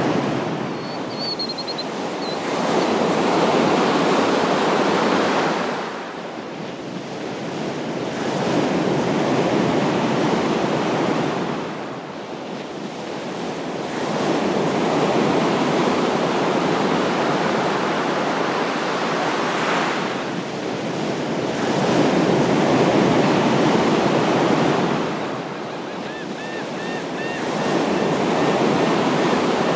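Ocean surf washing onto a shore, each wave swelling and falling back every five to six seconds. A few faint high chirps come about a second in and again near the end.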